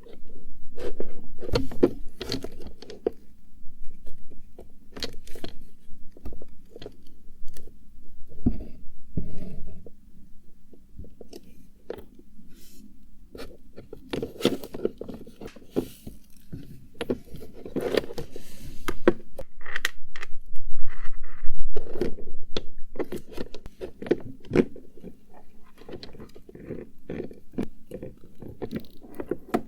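Close-miked hands rummaging through cosmetics and their containers: irregular scraping, clicking and knocking of small objects being picked up, opened and set down, loudest about two-thirds of the way in.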